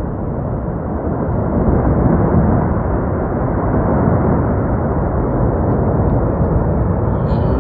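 Snow avalanche rumbling: a loud, deep, continuous rumble that swells about two seconds in and holds.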